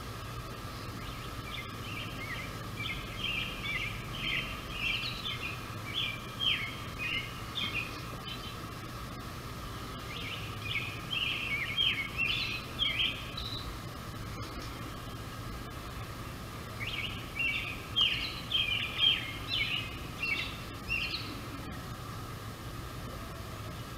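A songbird singing three songs, each a run of quick, varied high notes lasting several seconds, with pauses between them. Underneath is a steady background hum.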